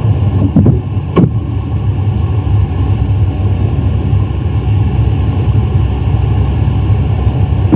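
Two sharp bangs about half a second apart near the start, followed by a steady low rumbling hum, all as picked up by a sleep-recording app at night. The bangs are so loud, and their source is unknown.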